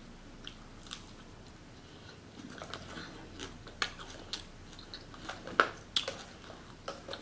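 Close-up chewing and crunching of Caesar salad with lettuce and croutons, with scattered sharp clicks of a fork picking at the plastic takeout bowl, loudest between about four and six seconds in.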